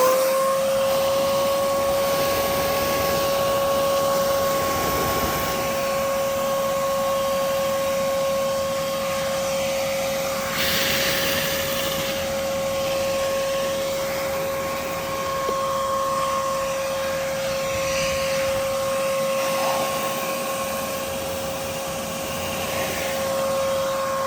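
Vacuum cleaner switched on and spinning up to a steady whine over a rush of air, sucking dirt and debris out of a window air conditioner. The rush gets louder for a moment about ten seconds in.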